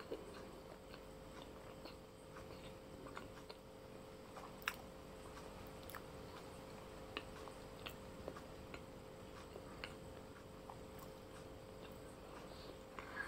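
Faint, irregular wet clicks of a person chewing a mouthful of noodles, over a faint steady hum.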